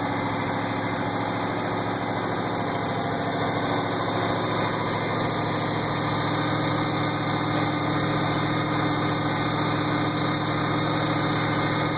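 1973 Corvette's 454 big-block V8 idling steadily on its first run after restoration, edging slightly louder partway through.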